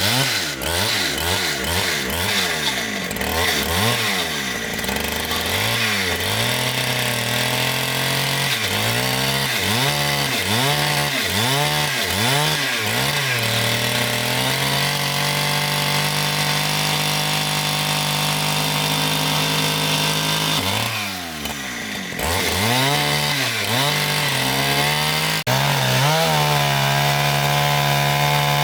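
Chainsaw engine revved up and down again and again, about once a second, then held at steady high revs for several seconds while cutting a log into boards. It drops off briefly about two-thirds of the way through, revs up and down again, and is held high once more near the end.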